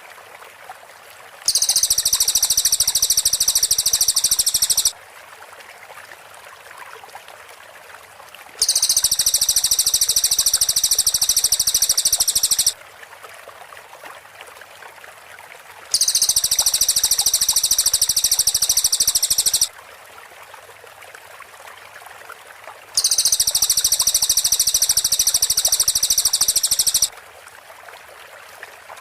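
Cililin bird song: a dense, rapid, high-pitched trill repeated four times, each run lasting about four seconds with a few seconds of pause between, over faint background hiss.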